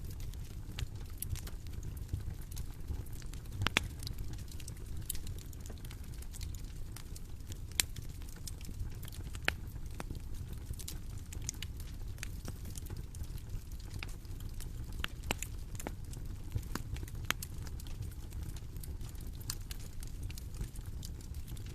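Bonfire burning: a steady low rumble of the flames with irregular sharp crackles and pops of the wood, several a second at times.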